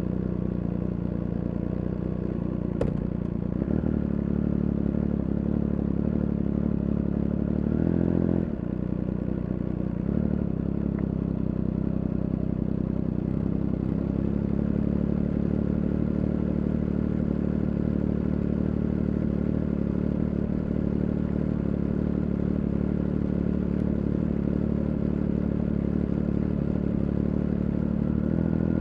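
Onboard sound of a Triumph Speed Triple 1200 RR's inline three-cylinder engine running steadily at cruising revs. About eight seconds in the revs swell briefly and then drop, and there is a single sharp click a few seconds in.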